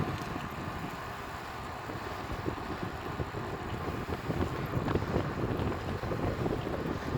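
Wind buffeting the microphone of a camera on a moving road bike: an uneven, gusty rumble with no pitched sound in it.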